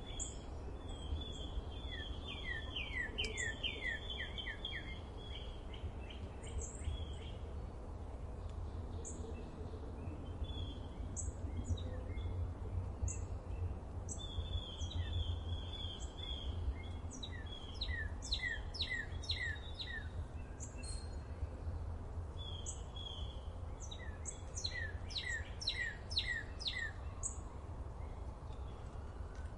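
Songbirds singing and chirping: repeated runs of quick falling notes and short high chirps, over a steady low rumble.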